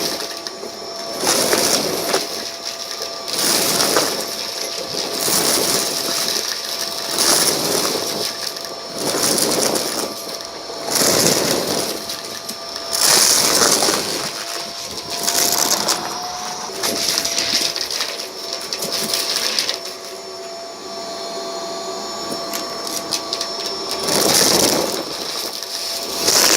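Vacuum cleaner running with a steady motor whine while it is pushed back and forth over a rug, surging about every two seconds as it pulls up a scattered debris mix. The strokes ease off for a few seconds near the end.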